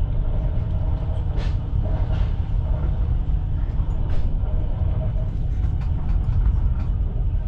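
Passenger train running along the track, heard from inside the coach: a steady low rumble with light clicks and knocks.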